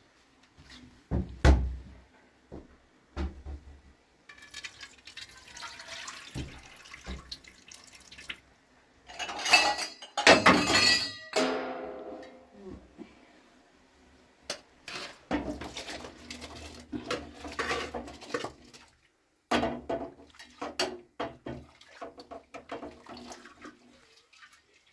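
Pots and dishes being handled: metal knocks, clatter and scraping, with water splashing. The loudest clatter, with some ringing, comes about ten seconds in.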